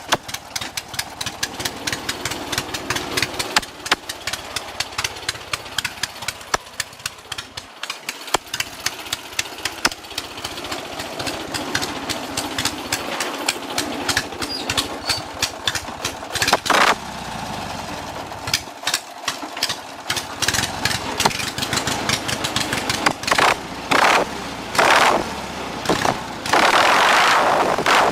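Lawn mower's small engine running through a partly fitted straight-pipe exhaust, with many sharp, uneven pops. It gets louder in the last few seconds.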